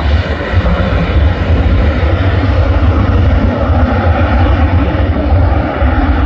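Airliner engine noise at close range: a loud, steady rumble and rush of engine sound with a heavy low end.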